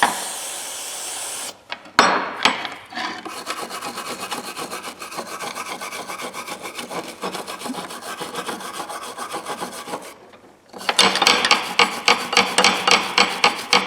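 A short hiss of aerosol carburetor-cleaner spray, then rapid rhythmic scrubbing strokes on a metal adjustable wrench as the dirt and rust are worked off, about three strokes a second, louder near the end.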